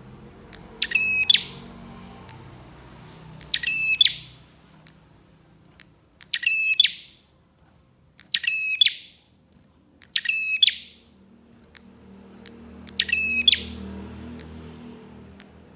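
Prinia (prenjak) call: a short, rapid burst of high ticking notes, repeated six times at intervals of about two to three seconds. This is a lure-call recording played to draw wild prinias.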